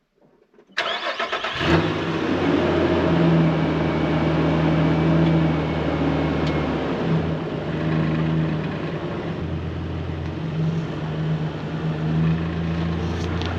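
A vehicle engine cranks and catches a little under a second in, then runs steadily with slight changes in pitch.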